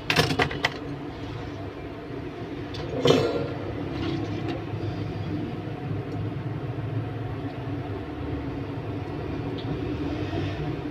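Steady low background rumble and hum. Over it come a few short clicks right at the start and a sharper knock about three seconds in, from small phone parts being handled and fitted back together.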